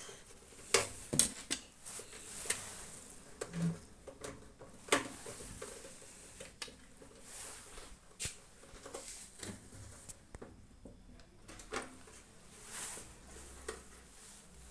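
Irregular light clicks and knocks of metal and plastic parts being handled and fitted into a microwave oven's sheet-metal body during reassembly, a few sharper knocks about a second in and near the middle.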